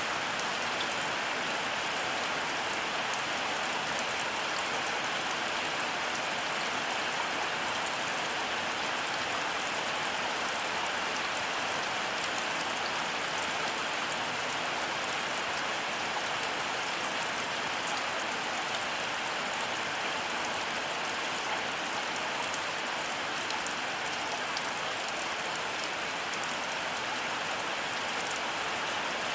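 Heavy rain pouring steadily, an even hiss that holds the same level throughout.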